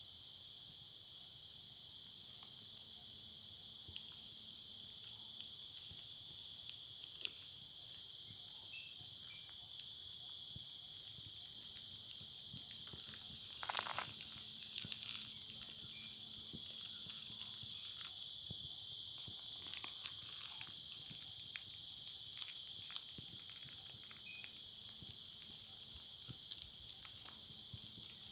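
Steady, high-pitched insect chorus shrilling without a break, with scattered small ticks and a short rustling noise about halfway through.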